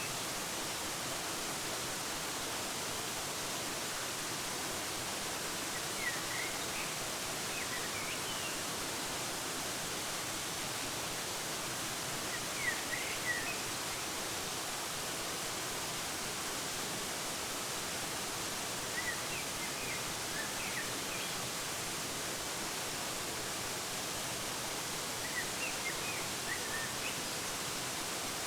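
Steady, even rush of a waterfall, with small birds chirping in four short bouts spread through it.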